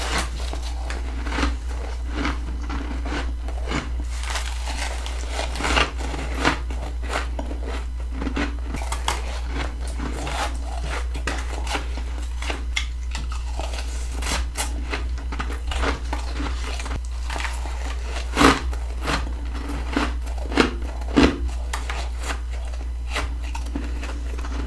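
Close-miked crunching and crackling of soft freezer frost being bitten and chewed. Dense small crackles run throughout, with a few sharper, louder crunches about three-quarters of the way in. A steady low hum sits underneath.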